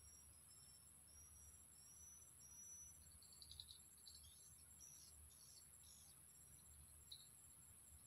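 Near silence: faint forest ambience with a steady high insect trill, a quick series of thin, high, rising chirps over the first few seconds, then scattered faint chirps.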